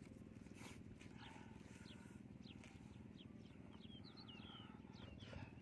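Faint small birds chirping in quick short notes, over a low steady rumble, with a few faint clicks.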